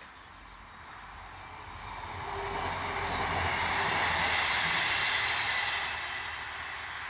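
A vehicle passing by: a rushing noise with a low hum that swells over a couple of seconds, is loudest in the middle, then eases off.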